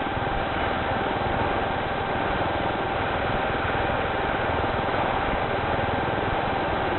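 Steady heavy rainfall, a constant even hiss with a faint steady high tone underneath.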